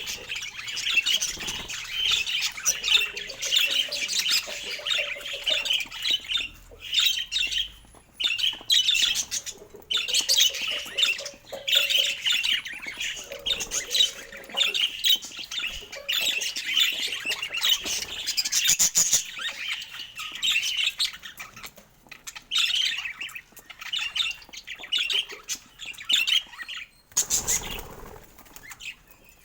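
Budgerigar chatter: rapid, continuous high twittering and warbling with short pauses, and a brief rush of noise near the end.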